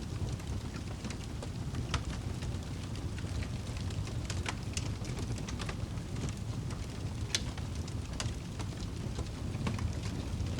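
Wood fire crackling: a steady low rumble of flames with scattered sharp pops and snaps, a few of them louder.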